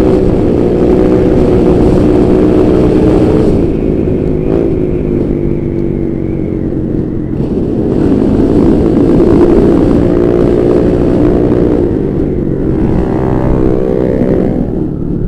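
Honda Vario 125 scooter's single-cylinder engine running loud through a Pro Liner racing exhaust, held at high revs, easing off about four seconds in, climbing again around eight seconds and dropping back near the end.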